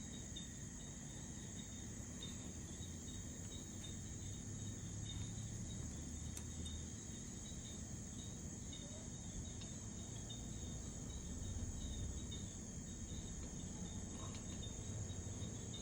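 Crickets trilling steadily without a break, over a low steady rumble.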